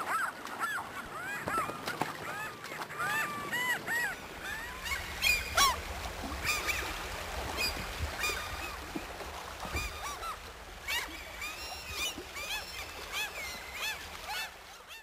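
A flock of birds calling, many short arching calls overlapping one another; a low rumble joins about five seconds in.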